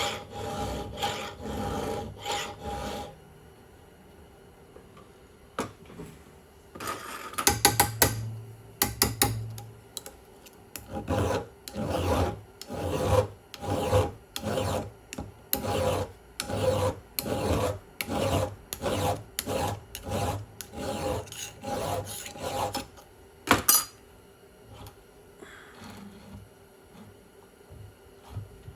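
A hand file stroking across chainsaw chain cutters in a sharpening jig. It goes in runs of quick, even strokes, about two a second, with short pauses between runs.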